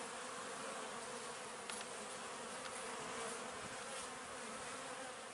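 Honeybee colony buzzing at the hive, a steady even hum, with a faint click or two.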